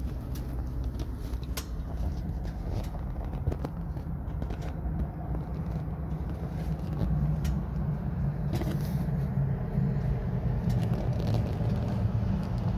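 Low steady rumble of a vehicle engine running, with a few scattered sharp clicks.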